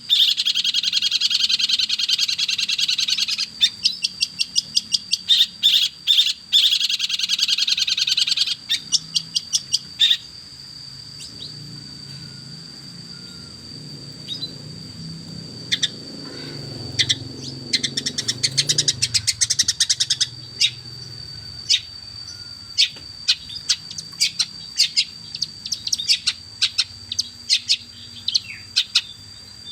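Long-tailed shrike singing, with a dense, fast chattering song at first, then runs of quick repeated short notes broken by pauses. A thin steady high tone runs underneath, and a low rumble rises and fades in the middle.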